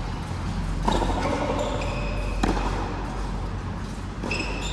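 Racket striking the ball during a rally, about twice a second and a half apart, with a weaker knock near the end, each followed by short high squeaks such as court shoes make on the floor.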